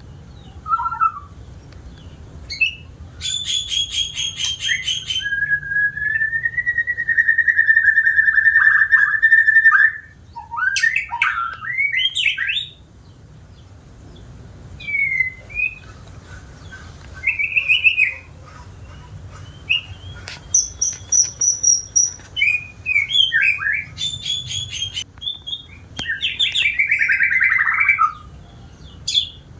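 White-rumped shama singing a varied song: rapid rattling trills, a long whistled note held for about four seconds, then a run of short whistles and chirps.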